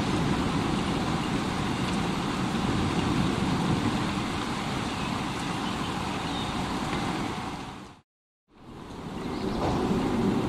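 Steady rushing rain. About eight seconds in it fades out to half a second of silence, then fades back in.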